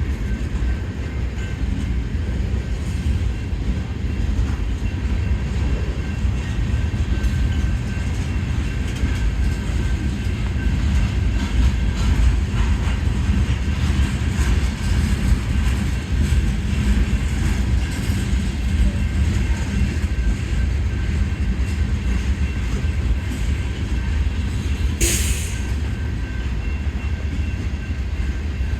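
Union Pacific manifest freight cars rolling slowly past, a steady low rumble with scattered wheel clicks. A brief high-pitched sound cuts in near the end.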